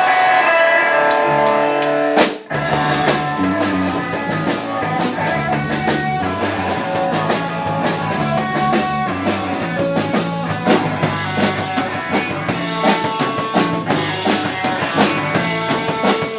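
Live rock band playing an instrumental intro: held guitar chords, then after a short break about two seconds in, bass and drum kit join with a steady beat.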